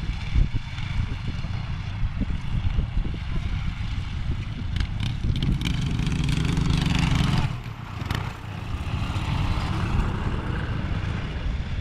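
Small garden tractor engines running at low throttle with a low, uneven chugging. The sound swells about six seconds in and drops off sharply just before eight seconds, then goes on.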